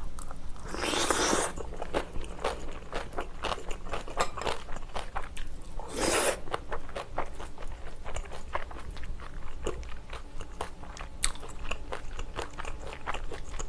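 Close-miked eating sounds of stir-fried sundae and pork tripe with kimchi: wet chewing with many small crunches and clicks. Two louder, longer sounds come about a second in and about six seconds in.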